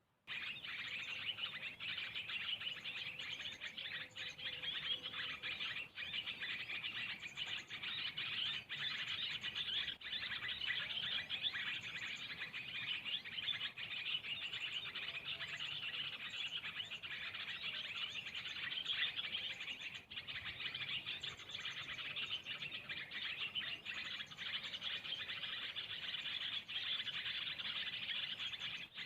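Small birds chirping continuously in a dense, busy chorus of rapid high calls. It starts abruptly and keeps going without a break.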